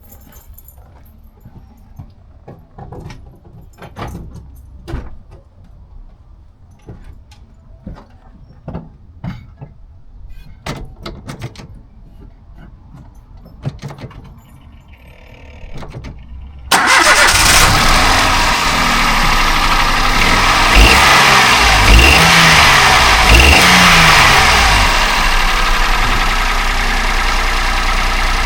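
Toyota Aygo engine started for its test fire after being refitted. A few light clicks and knocks come first; then, a little past halfway, the engine catches suddenly and runs loud, is revved up and down a few times, and settles to a steady idle.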